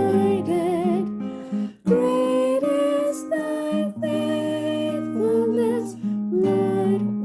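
A slow song: a solo voice singing a melody with vibrato over acoustic guitar and a sustained bass.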